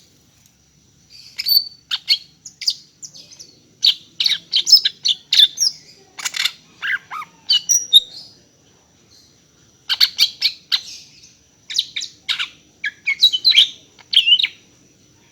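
Female greater green leafbird (cucak ijo) calling for a male: rapid runs of sharp chirps and short whistled notes in two bursts, with a pause of about two seconds between them.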